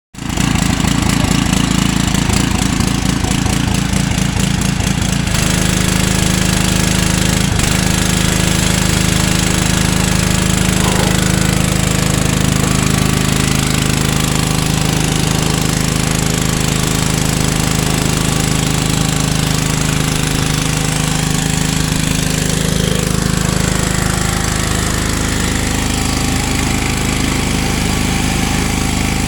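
Pressure washer running: a loud, steady mechanical drone with a hiss across the highs. The drone pulses rapidly at first, then settles into a smoother, steadier tone about five seconds in.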